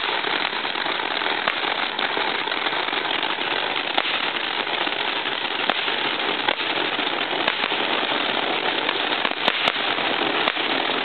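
A lit firework burning with a steady loud hiss, punctuated by scattered sharp pops every second or two.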